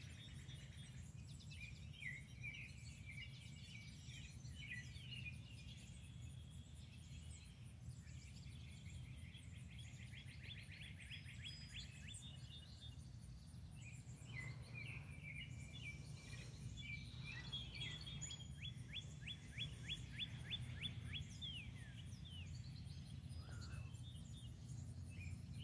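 Songbirds singing and chirping, with two rapid trills of quickly repeated notes, around ten and nineteen seconds in, over a faint steady low rumble.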